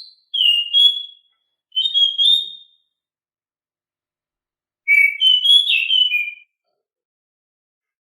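Anis macan thrush singing loud, clear whistled phrases: two short phrases in the first three seconds, then a longer phrase of several quick varied notes about five seconds in.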